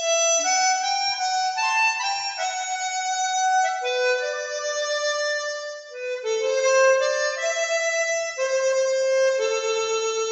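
Harmonica playing a slow melody of sustained notes. The phrase breaks briefly about six seconds in, then the next phrase begins.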